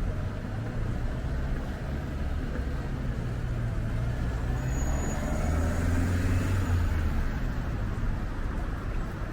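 A large engine running close by, a low steady hum that swells about five to seven seconds in, with a faint high whine in the middle.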